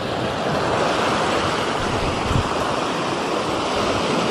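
Steady wash of seawater, small waves running along the shallows.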